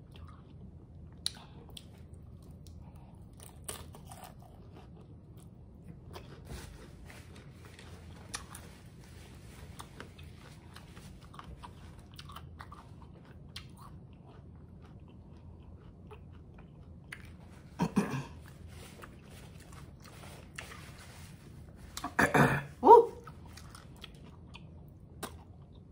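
Chewing a crunchy hard-shell taco: a steady run of small crunches and crackles. Two brief louder mouth sounds come about 18 and 22 seconds in, the second a short hummed 'mm'.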